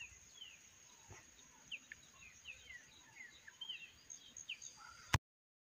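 Faint birds chirping: many short, quick, downward-sliding chirps, over a faint steady high whine. A click near the end, then the sound cuts out.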